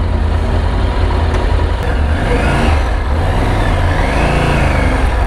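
Triumph Tiger 900 Rally Pro's three-cylinder engine pulling away under acceleration, its revs rising and falling twice as it goes up through the gears, over a steady low rumble of wind and road noise on a helmet-mounted camera.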